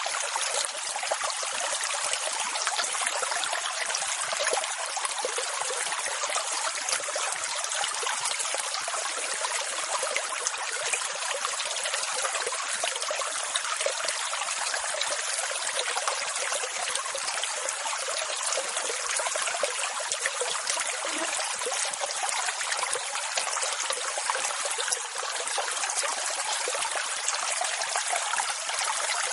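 Steady rushing water, a dense even hiss with almost no bass and no rise and fall of separate waves.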